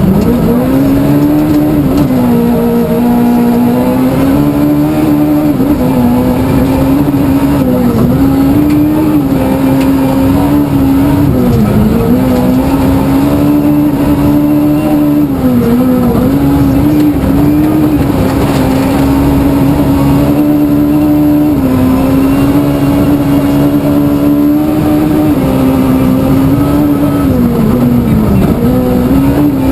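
1400 cc class rally car's engine running hard at high revs, its pitch dipping briefly at gear changes and lifts every few seconds, over a steady rumble of road noise.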